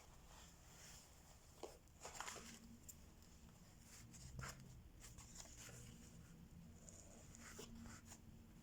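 Faint, sparse small clicks and taps of diamond-painting work, a drill pen setting resin drills onto the sticky canvas, over a low steady room hum.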